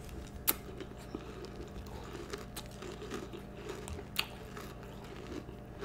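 A person chewing a mouthful of Kellogg's Peeps cereal, marshmallow-flavoured pieces with marshmallows mixed in. Two sharp clicks come about half a second and about four seconds in.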